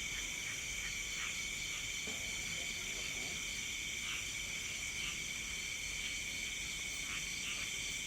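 Night insect chorus of crickets: a steady high-pitched trilling in several layered pitches, with scattered short chirps on top.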